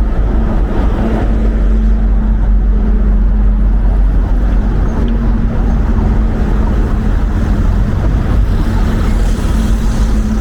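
Wind buffeting the microphone as a heavy, steady low rumble, with a low hum running underneath that drops out a few times.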